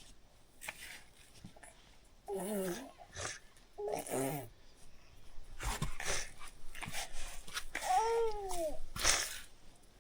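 Short, high-pitched wordless vocal sounds, three of them, the last rising and falling in one arc, with breathy puffs between.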